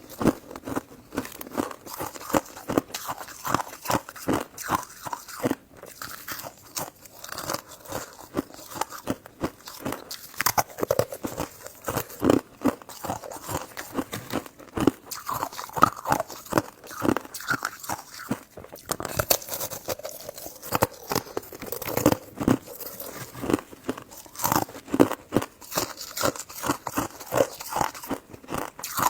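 Close-miked chewing of a soft, chewy jelly dessert: a continuous run of wet, sticky mouth clicks and smacks, several a second, with no pauses.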